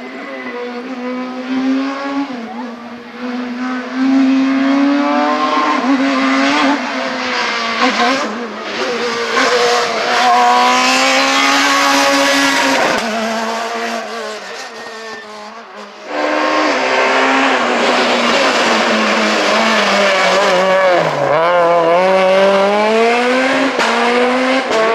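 Super 2000 rally car engines at full throttle, the revs climbing and dropping through quick gear changes. The sound fades away, then comes back suddenly loud about sixteen seconds in. Near twenty-one seconds the pitch dips low before rising again.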